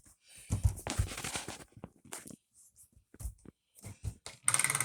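Plastic toy trains clattering and knocking as they are handled. Near the end, a battery-powered toy train's small motor starts running, with a fast even gear clicking and a high whine.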